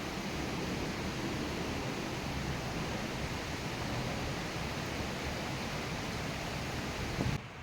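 Heavy rain falling steadily, an even hiss with no distinct drops. It cuts off abruptly near the end.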